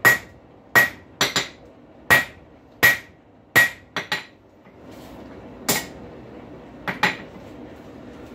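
Forging hammer striking a hot rail spike on the anvil to flatten its head, about a dozen blows at an uneven pace with a short pause midway, each blow giving a brief high ring.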